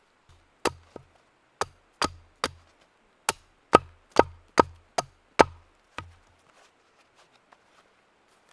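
Firewood being chopped: about a dozen sharp blade strikes into wood, each with a dull thud, roughly two a second, stopping about six seconds in.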